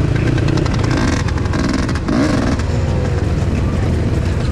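Enduro motorcycle engines running loudly, one revving up briefly a little after two seconds in.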